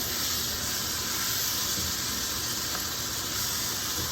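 Vegetables sautéing in butter in a pan, sizzling steadily.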